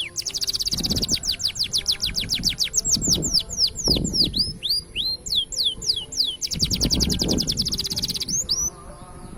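Green canary singing: a rapid series of sharp down-slurred whistles broken by two very fast rolling trills, one near the start and one after about six and a half seconds.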